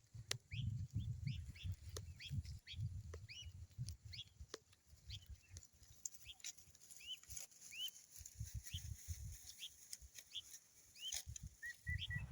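Faint bird chirps, short arched notes repeating every half second or so, over a low rumbling and scattered clicks.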